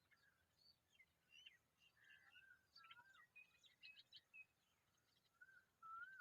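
Faint calls of familiar chats: a scatter of short high chirps through the first half, and several slurred whistled notes that rise and fall, the loudest one near the end.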